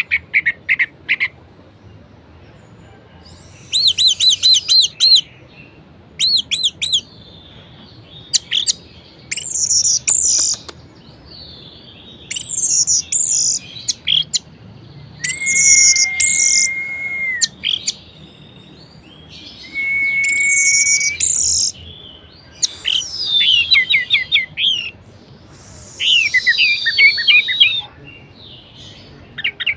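Orange-headed thrush (anis merah) singing loud, varied phrases of one to three seconds with short pauses between: fast trills, rapid runs of repeated notes and sweeping notes, two phrases held on a steady whistle in the middle.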